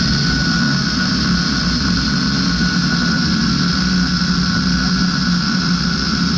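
Electric power tool running steadily at full speed on aluminum stock, a constant motor hum with a high whine over it.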